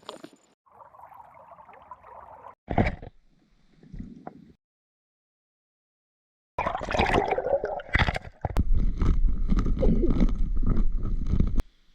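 Water gurgling and splashing, heard in several short clips joined by abrupt cuts, with a silent gap in the middle. A louder, rushing stretch starts after the gap and stops suddenly near the end.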